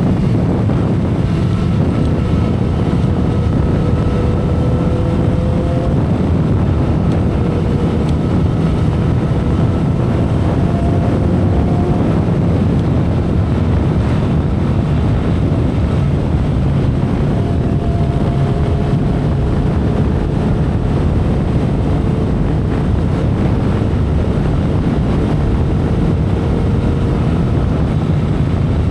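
2012 Kawasaki Ninja ZX-10R's 1000cc inline-four engine running at expressway cruising speed, its pitch rising slowly a few times, under a heavy rush of wind on the microphone.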